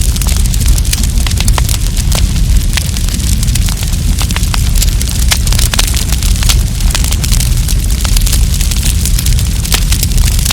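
Wood campfire burning, with many quick crackles and pops over a steady low rumble.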